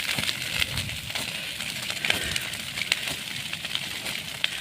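Wildfire in dry forest vegetation crackling: a steady hiss with many irregular sharp snaps and pops.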